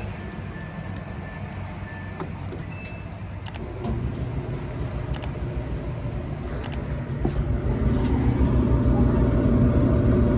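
Samsung electric clothes dryer running: its drum motor and blower make a steady low hum that grows louder about four seconds in and again about eight seconds in, with a few light clicks.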